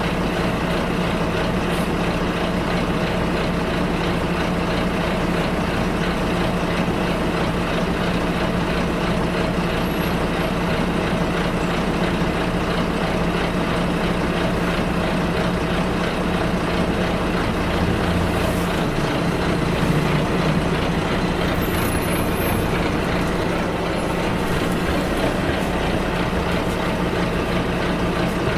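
Bus engine running steadily, heard from inside the bus as a constant hum over road noise. About two-thirds of the way through, the engine note shifts for a couple of seconds, then settles again.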